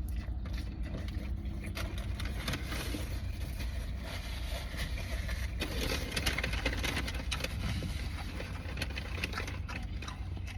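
Steady low hum of a car engine idling, with faint irregular rustling and small clicks of someone eating a wrapped chicken wrap.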